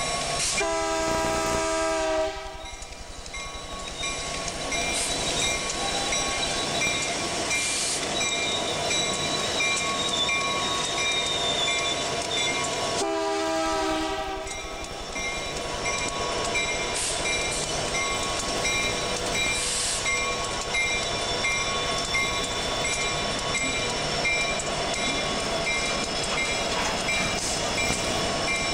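CSX freight train rolling by steadily, its diesel locomotive sounding two short horn blasts, one near the start and one about halfway through.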